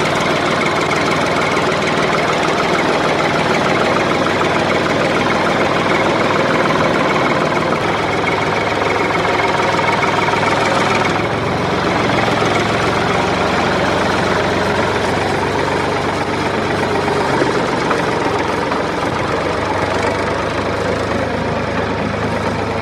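Engine running steadily at idle with a rapid knocking chug, its tone shifting slightly about eleven seconds in.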